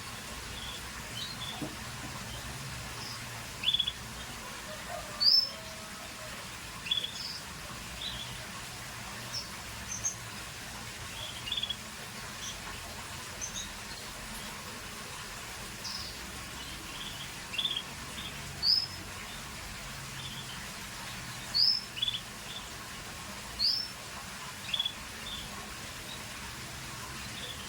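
Scotch Fancy canary giving short, high chirps every second or two, some rising quickly in pitch, rather than a continuous song.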